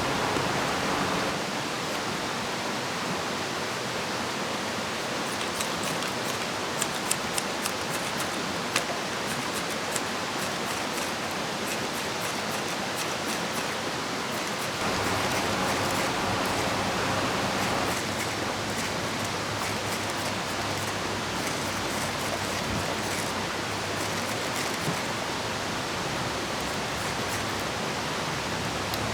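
Steady rushing of a river and falling rain, with scattered sharp ticks. The wash steps up in loudness for a few seconds about halfway through, then drops back.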